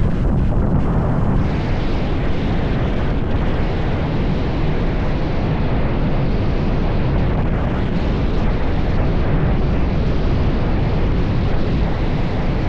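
A motorcycle riding at road speed, with steady wind rush over the microphone covering the engine.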